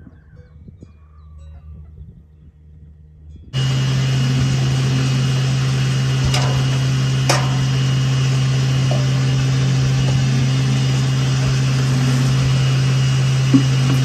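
A motor running steadily, a loud drone with a strong low hum, starts abruptly about three and a half seconds in after a quiet start. Two sharp clicks come a second apart in the middle.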